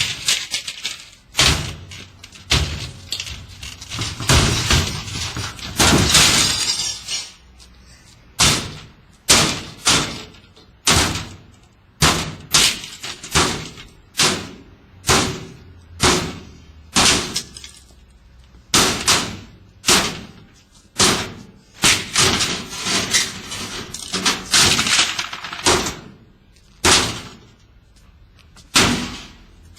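A washing machine being struck again and again, heavy crashing blows about once a second with a clattering, glassy ring after each.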